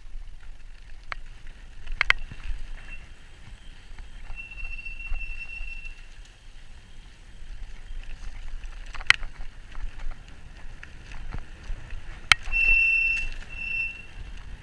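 Riding an e-bike over a rough towpath: low tyre and wind rumble, with occasional sharp knocks and rattles as the bike jolts over bumps. A thin, steady high whine runs under it and swells twice, once in the middle and once near the end.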